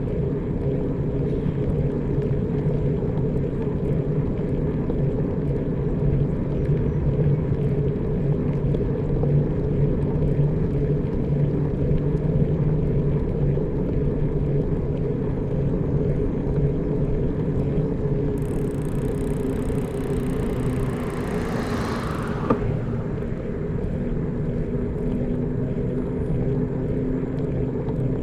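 Steady engine drone of a motor vehicle running at an even speed. About 18 seconds in, a brief hissing whoosh falls in pitch and stops sharply about 22 seconds in.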